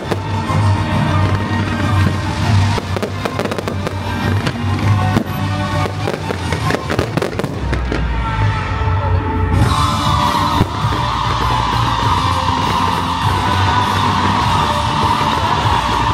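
Festival firecrackers and fireworks crackling and banging over loud music with a steady bass. The crackle is densest in the first half; from about ten seconds in, a steady high hissing sound carries on to the end.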